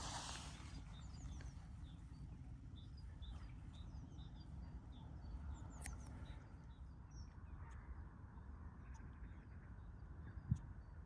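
Small birds chirping in short, scattered calls over a steady low rumble. There is a brief rustle at the start and a single sharp thump about ten and a half seconds in.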